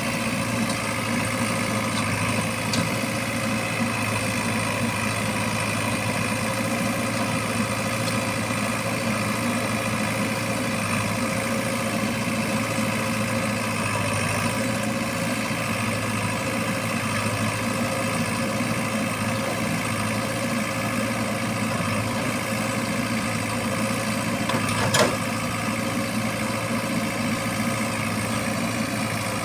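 Diesel engine of a tractor or backhoe loader running steadily at low revs, with one sharp metallic knock about 25 seconds in.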